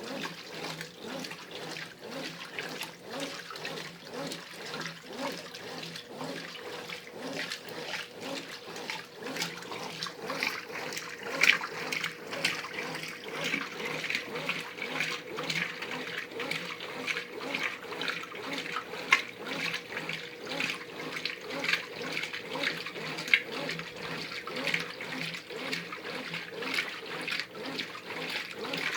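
Brastemp Ative 11 kg top-loading washing machine agitating in its wash stage: water and laundry slosh in regular surges as the agitator drives back and forth. The surges grow stronger about ten seconds in, over a faint steady hum.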